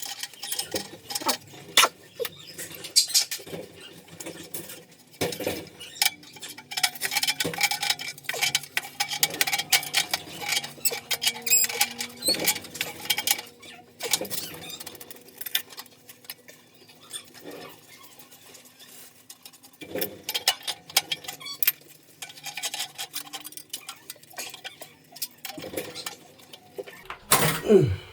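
Irregular clicks, taps and scraping from hand work on metal heating pipes and fittings, over a faint steady hum. A longer sliding scrape comes near the end.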